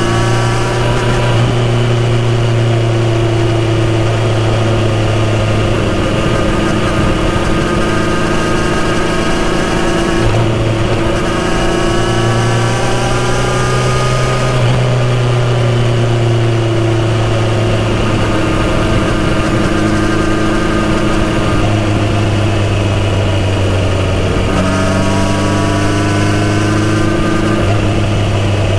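Kawasaki Z900RS inline-four engine and full-system exhaust under way. The engine note holds steady, then rises and falls several times as the throttle opens and closes, over a rush of wind noise.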